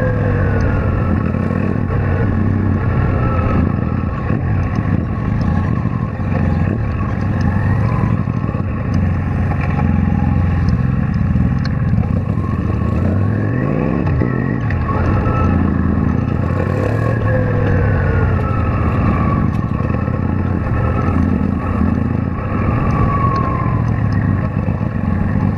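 Kawasaki Vulcan VN800 V-twin cruiser engine running in slow traffic, its note rising and falling with the throttle several times.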